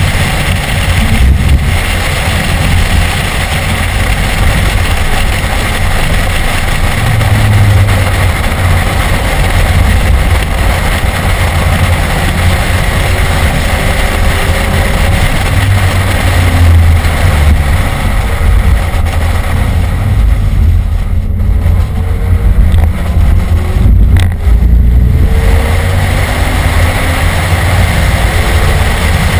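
BMW E46 M3's straight-six engine running hard on a race track, heard from inside the cabin over wind and tyre noise. Around twenty seconds in, the hiss of wind and road eases for a few seconds while the engine note shifts, then it builds back up.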